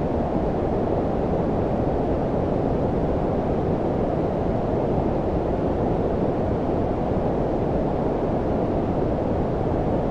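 Steady low-pitched synthetic noise, brown-noise-like, a constant deep rushing hiss with its energy below about 1 kHz and very little treble. It holds an even level with no events or changes.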